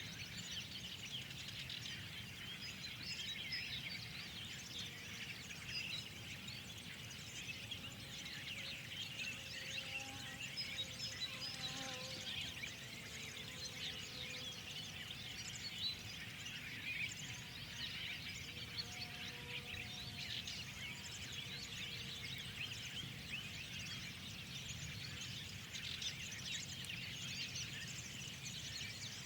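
Many songbirds chirping and calling over one another in a continuous dense chorus of short high chirps, with a few lower whistled notes and a steady low background rumble.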